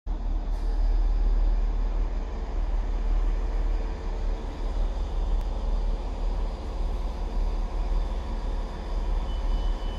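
Steady low rumble of railway station ambience, with trains standing at the platforms, and a faint brief high tone near the end.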